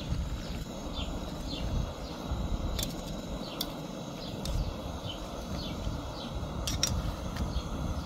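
A small bird repeats short, falling chirps about twice a second over a steady low rumble. A few sharp clicks come as fresh walnut leaves are pushed down into a pot of boiling water.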